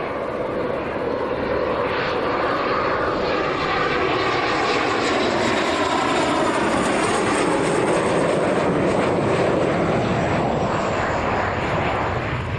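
Military aircraft engines roaring as an aircraft flies past, building to a peak and easing off near the end, with a whine that falls in pitch as it passes.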